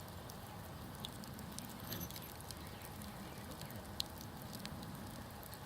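Wood campfire burning with a low steady rush and scattered small crackles, one sharper pop about four seconds in.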